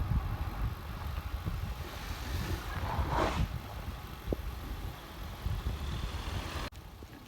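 Wind rumbling on the microphone of a moving road bike, with a vehicle rushing past about three seconds in. The sound drops off suddenly near the end.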